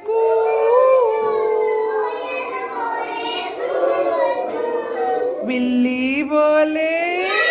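A child's singing voice holding long pitched notes that rise and fall.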